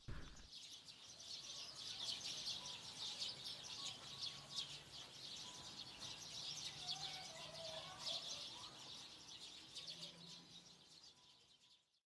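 Birds chirping: a dense, rapid high chatter with a few fainter lower calls, fading out near the end.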